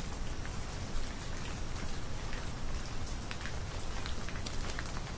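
Light rain pattering: a steady hiss with scattered, irregular drop ticks.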